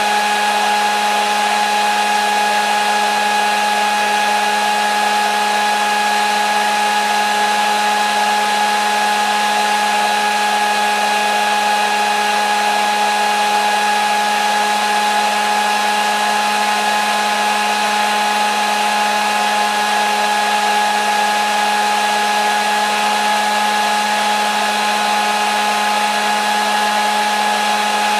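Hair dryer running continuously at a constant setting: a steady rushing of air over an unchanging motor whine.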